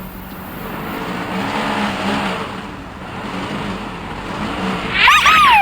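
A toy vehicle's engine sound runs with a noisy hum. Near the end, a loud whistle-like tone arcs up briefly and then slides down in pitch.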